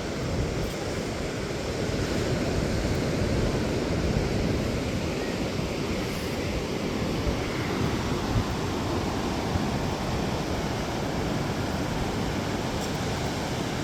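Ocean surf breaking and washing onto the beach in a steady rush, with wind rumbling on the microphone.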